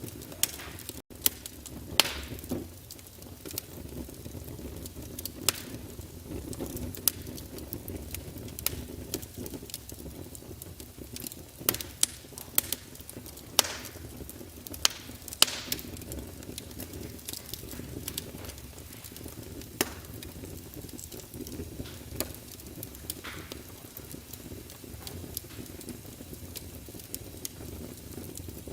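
Fire in a fireplace crackling, with irregular sharp pops over a low, steady rumble of the flames; a handful of louder pops stand out in the first half.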